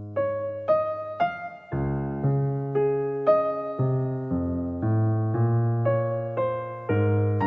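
Background music: an electric piano playing a slow melody, one note struck roughly every half second, each ringing and fading.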